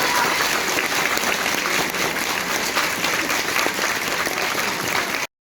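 Audience applauding, many hands clapping steadily; the sound cuts off abruptly about five seconds in.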